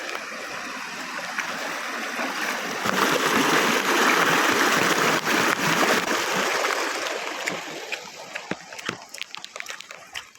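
Running water of a forest stream, a steady rush that swells about three seconds in and fades away near the end, leaving scattered light clicks.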